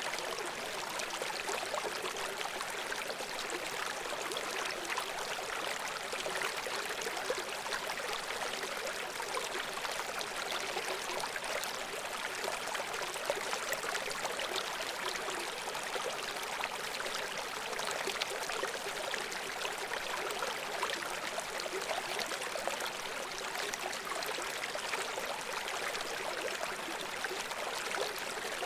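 Babbling brook: shallow water running and gurgling over stones, a steady, even rushing without pauses.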